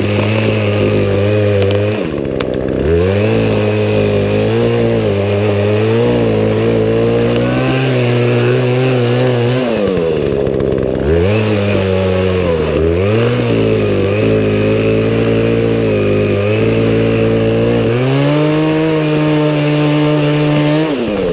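Poulan Pro two-stroke chainsaw running at high revs while cutting a tree limb. The revs drop back briefly about two seconds in and twice around the middle, climb higher a few seconds before the end, then fall as the throttle is released.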